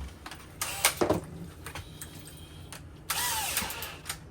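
A few sharp knocks, then a short burst of a power drill running, about three seconds in.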